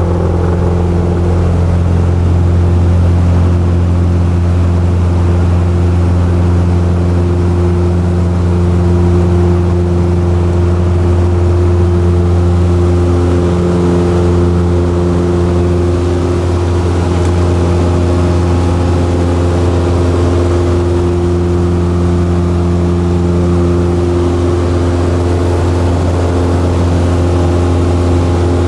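Light aircraft's piston engine and propeller running steadily, a loud, even drone with a deep hum.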